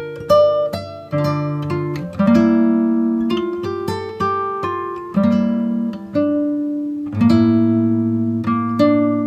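Background music: acoustic guitar, plucked notes and chords ringing out and fading, at an unhurried pace.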